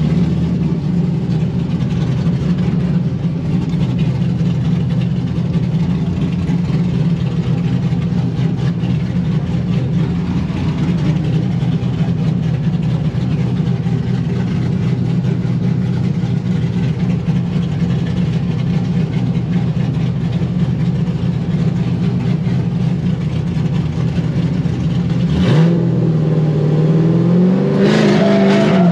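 Corvette drift car's V8 engine idling steadily, then revving up twice near the end, its pitch climbing.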